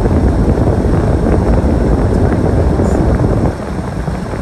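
Storm wind buffeting the microphone: a loud, gusty rumble that eases a little about three and a half seconds in.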